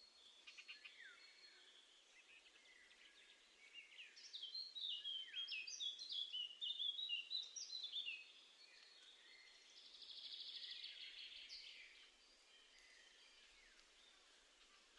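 Small songbirds calling and singing: a run of quick, high chirps about four seconds in, then a short buzzy trill a little later.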